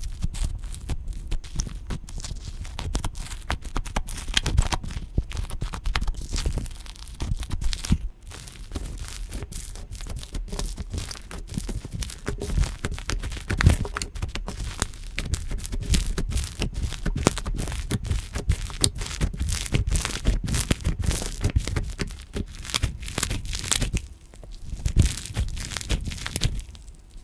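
Slime being squeezed and stretched by hand, a dense run of small sticky pops and crackles.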